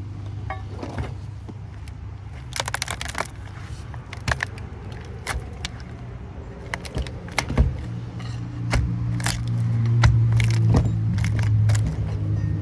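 Metal parts clinking and scraping as a scrap copper transformer is worked on by hand, a string of sharp clinks with a rattling cluster about two and a half seconds in. Under it runs a steady low hum that gets louder from about eight seconds in.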